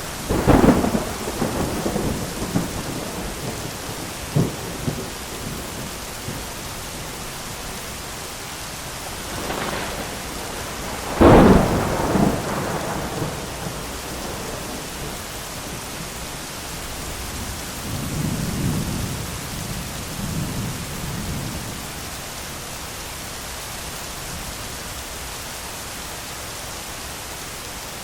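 Thunderstorm: steady rain throughout, with thunder. A loud, sharp thunderclap comes right at the start and rolls off over a few seconds, and a second loud crack comes about eleven seconds in. A softer, lower rumble follows around eighteen to twenty-one seconds, and the last several seconds are rain alone.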